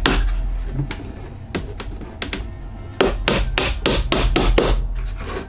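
Hammer striking pallet wood: a few scattered blows, then a quick run of about eight blows about three seconds in.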